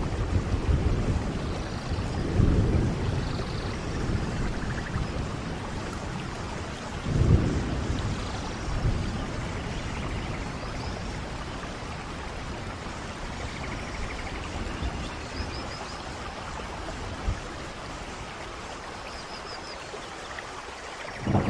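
Steady rainfall with low rolls of thunder, the two strongest swelling about two and seven seconds in. Faint high chirps come through late on.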